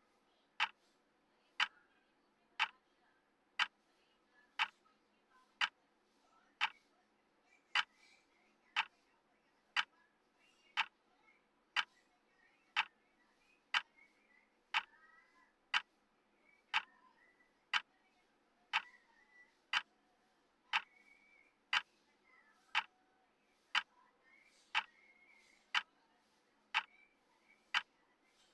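Clock tick sound of a countdown timer: a single sharp tick once every second, steady and even.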